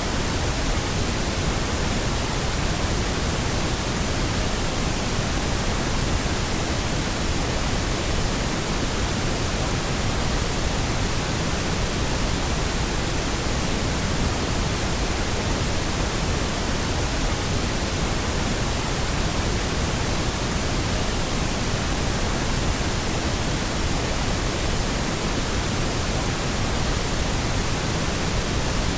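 Steady pink noise, an even hiss spread across all pitches with no changes or events.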